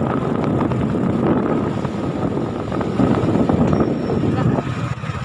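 Heavy road vehicle engines running, a truck and a minibus, with a dense low rumble and a thin steady whine over it. The noise eases off near the end.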